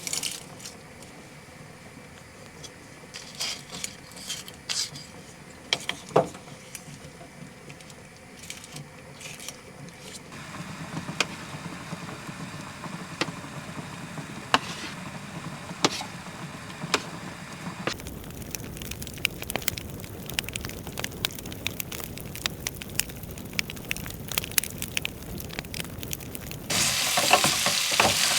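Food sizzling and frying in a pan while it is stirred, with scattered sharp clicks of a utensil against the pan. The sound changes abruptly about ten, eighteen and twenty-seven seconds in, and the last part is the loudest.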